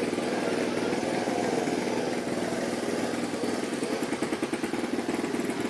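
A motocross bike's engine running steadily, with a rapid, even pulse and no big revs.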